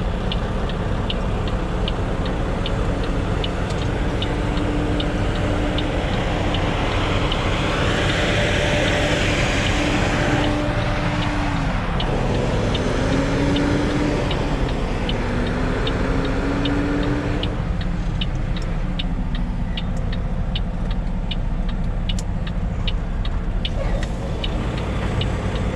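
Semi truck's diesel engine running while the rig is maneuvered, its pitch rising and falling several times, with a steady run of regular clicks throughout.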